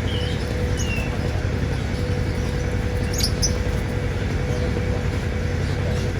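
Steady low rumbling background noise with a constant hum. A few short, high bird chirps come near the start, about a second in and around three seconds in.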